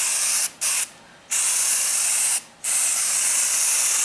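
Aerosol can of 3M 77 spray adhesive hissing in several bursts of about half a second to a second and a half, with brief pauses between them, as a coat of glue is laid on upholstery foam.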